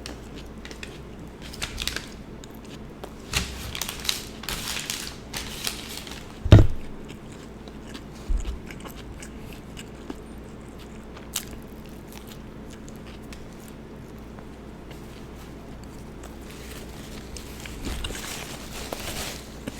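Close-miked eating of an Italian sub: bites and crunchy, crackly chewing sounds that come in spells. A loud thump about six and a half seconds in and a smaller one about two seconds later; the stretch after that is quieter until the chewing picks up again near the end.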